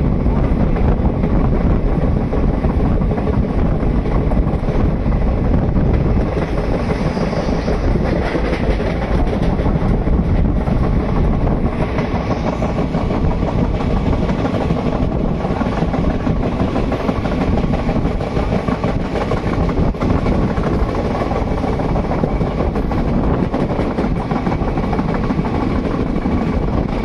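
Indian Railways electric train running at speed: a steady, loud noise of wheels on rails.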